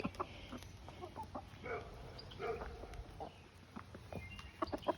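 Chickens clucking softly in short, scattered calls, with a quicker run of short clucks near the end. These are roosters' food calls, calling their hens over to pieces of bread.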